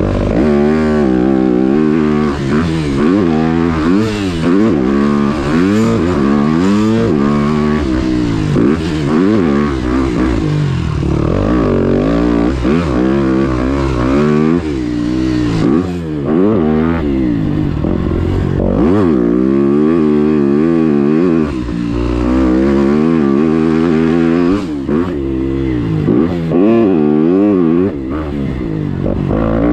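Motocross dirt bike engine being ridden hard, its pitch climbing and falling again and again as the throttle is opened and shut and gears are shifted, with short drops where the throttle is chopped.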